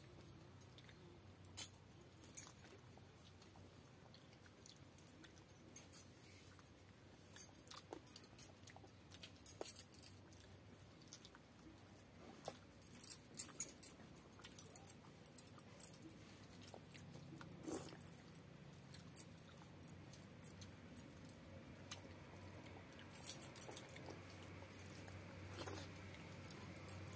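Close-miked eating by hand: chewing and mouth smacks over rice and fish curry, with irregular sharp clicks and little crackles scattered throughout.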